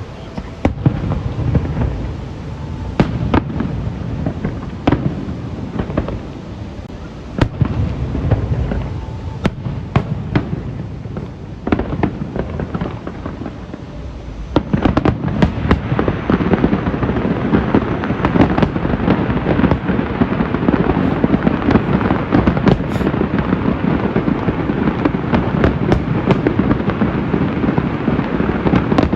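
Aerial fireworks bursting: separate sharp bangs every second or two, then about halfway through a dense barrage of rapid crackling and bangs that goes on without a break.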